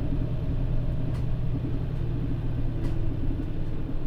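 Mitsubishi Fuso Aero Star (PJ-MP35JM) city bus's diesel engine running, a steady low drone, with two faint clicks.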